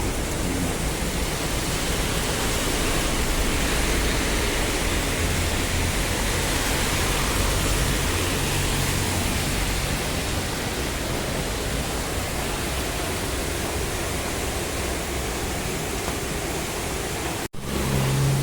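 Heavy monsoon rain pouring down in a steady, even hiss, broken by a brief instant of silence near the end.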